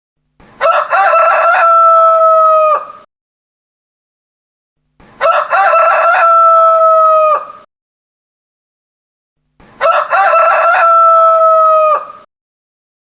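Rooster crowing three times, the same crow repeated about every four and a half seconds with dead silence between. Each crow opens with a few short broken notes and ends in a long held note that falls slightly and cuts off.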